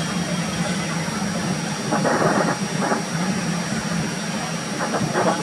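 Train of double-decker passenger coaches rolling away over the rails: a steady low rumble, with brief louder rattles about two seconds in and again near the end.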